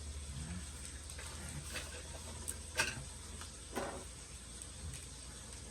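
Faint scratchy handling noise with a few small taps and clicks from craft materials and tools being worked at a tabletop, over a steady low hum.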